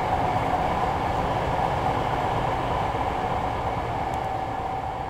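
Running noise of a Tokyo Metro 05 series train heard inside the carriage while it travels at speed, a steady rumble with a steady whine running through it. It fades out near the end.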